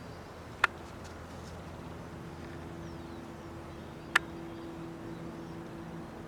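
Steady low mechanical hum with two held tones, broken twice by a sharp click about three and a half seconds apart.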